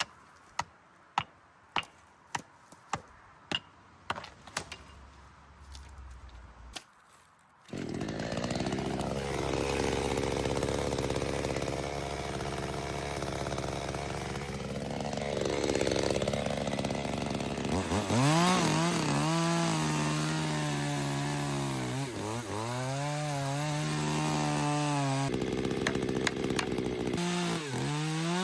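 About ten sharp knocks in the first seven seconds. Then a chainsaw starts up about eight seconds in and keeps running, its engine pitch rising and falling as it revs and cuts wood.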